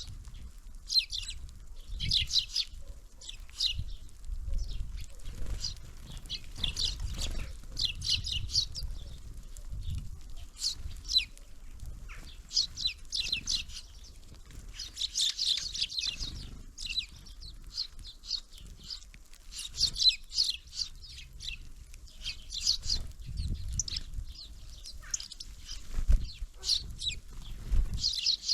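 Small songbirds chirping at a winter feeder: clusters of short, high calls every second or two, over a low rumble with occasional low knocks.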